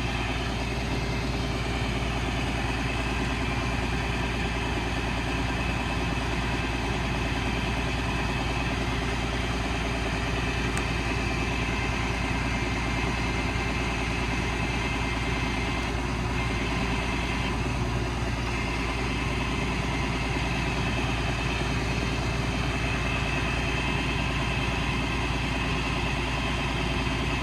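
Cummins 5.9 inline-six diesel idling steadily, with a steady whine on top, while it powers the hydraulic crane.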